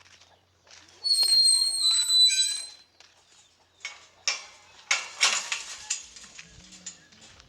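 A farm gate being swung shut: its hinge gives one loud, steady high-pitched squeal lasting nearly two seconds, then the gate clatters and knocks several times as it closes.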